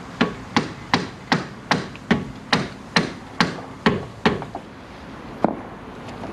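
Hammer blows on metal, about a dozen in a steady rhythm of two to three a second, then one more after a short pause: knocking loose a front strut assembly that is stuck fast.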